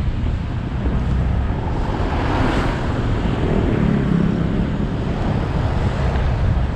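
Wind rushing over a GoPro action camera's microphone on a moving motorbike, over the motorbike's engine and road noise. The rush swells a little about halfway through.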